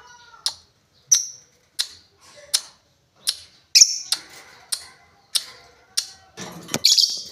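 Lovebird giving short, sharp high ticking chips, the call lovebird keepers call ngetik, about one every half to three-quarters of a second, with a denser, harsher burst near the end.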